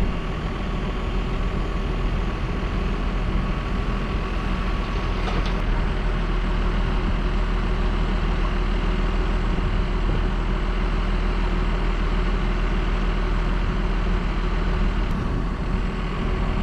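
JCB Fastrac 1125 tractor engine running steadily while spraying, a constant low drone with a faint steady whine over it. A brief click about five seconds in.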